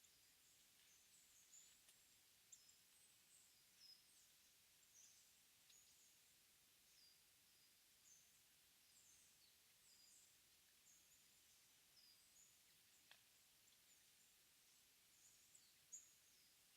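Faint, thin, high-pitched calls of small songbirds in early-morning mountain forest, short down-slurred notes every half second or so. There is one louder note near the end and a single tick partway through.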